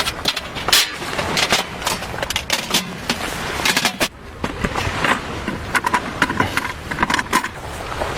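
A busy run of irregular sharp clicks and knocks over a steady rustling, scraping noise.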